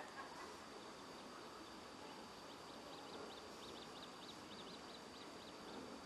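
Faint series of short, high, thin bird notes, several a second, starting about halfway through, over a steady outdoor hiss.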